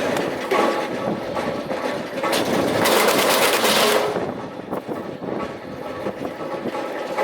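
Electric drum wood chipper running and chipping sawmill slabs and board offcuts: a fast, dense clatter, with a louder stretch of chipping around the middle.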